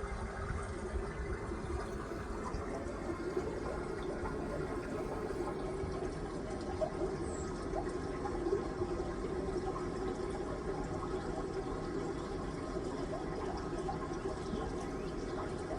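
Steady running water, a continuous even splashing with no breaks.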